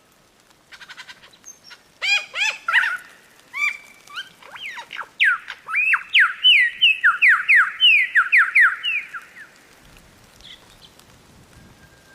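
A songbird singing: scattered short chirps, then a fast run of repeated downward-sweeping whistled notes lasting about four seconds, stopping about two-thirds of the way through. A faint steady hiss follows near the end.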